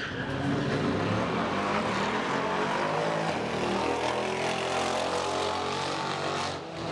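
A high-performance car engine running at fairly steady revs with a deep exhaust note made of several steady tones. It briefly drops away near the end.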